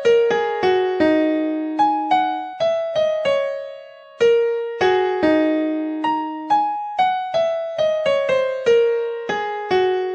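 Background music: a simple melody played on an electric piano, single struck notes decaying one after another, with a short pause about four seconds in.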